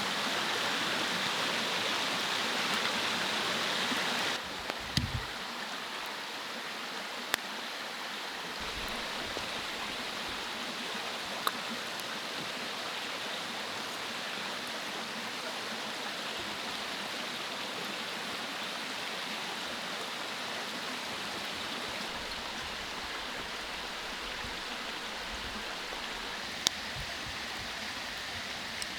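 Mountain stream rushing steadily. The rushing drops a little in level about four seconds in, and a few sharp clicks sound over it.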